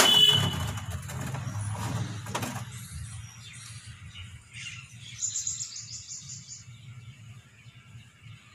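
Sharp metallic knocks with a brief ring at the start and again about two and a half seconds in, then a bird chirping rapidly, a quick run of short high notes, from about five seconds in.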